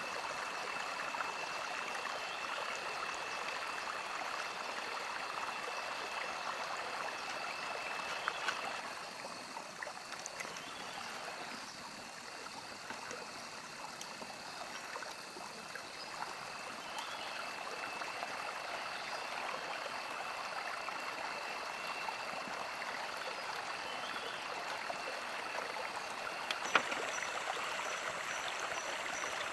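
Running water of a mountain stream, a steady hiss that drops a little about a third of the way in, with a thin steady high-pitched tone over it and one sharp click near the end.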